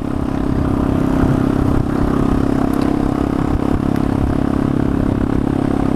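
Motorcycle engine running steadily with an even drone.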